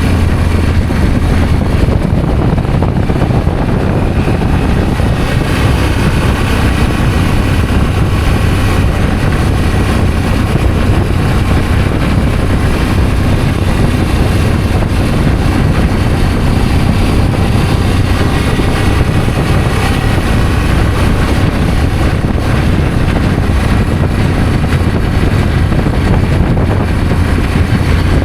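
Adventure motorcycle engine running at a steady pace while riding, a constant low drone over rushing road and wind noise.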